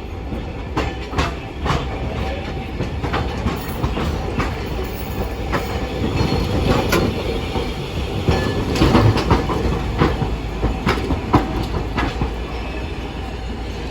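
Hiroshima Electric Railway streetcar moving over the track, its wheels clacking over rail joints and points. The clacks are thickest through the middle and later part.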